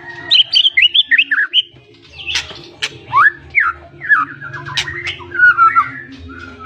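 White-rumped shama (murai batu, piebald 'blorok' form) singing a fast, varied stream of whistled phrases: quick rising and falling notes with a few sharp clicks mixed in. A steady low hum runs underneath.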